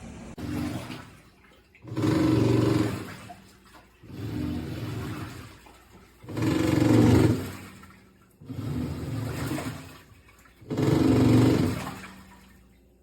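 Top-loading washing machine's pulsator agitating the wash water, in six regular surges about every two seconds, alternating louder and softer as the drum reverses direction.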